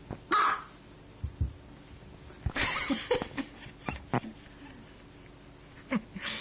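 A dog barking in short, separate bursts: one about half a second in, then a cluster of several between about two and a half and three and a half seconds, with a few dull knocks in between.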